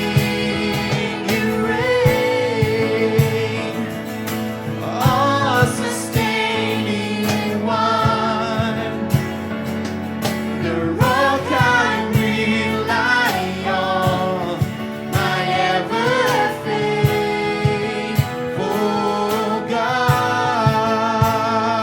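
A worship team singing a contemporary Christian worship song, with vibrato-laden voices over steady band accompaniment and a regular drum beat.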